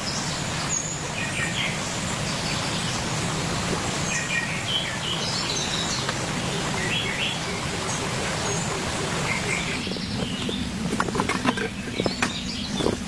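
Steady rain with birds chirping in short calls every second or two. About ten seconds in, a run of sharp taps and clicks starts.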